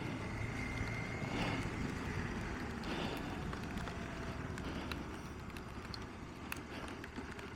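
Motorcycle being ridden, its engine running steadily under road noise.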